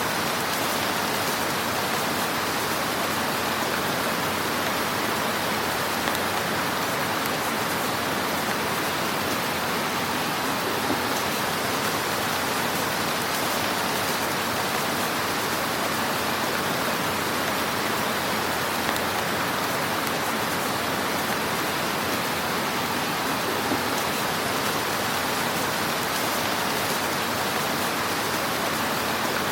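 Fire burning in a fireplace: a steady, dense hiss of fine crackling, with a few slightly louder pops.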